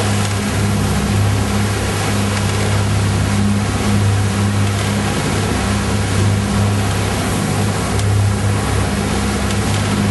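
Boat engine running steadily, a constant low drone under a dense rushing hiss of wind and water.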